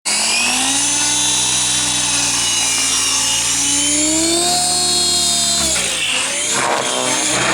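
Electric RC helicopter's Scorpion 4525-520kv brushless motor and rotor running with a high whine whose pitch wanders, climbing slowly, then dipping sharply about six seconds in before picking back up. The uneven speed is a sign of the persistent problem the owner is chasing with this motor, which a KDE motor did not show.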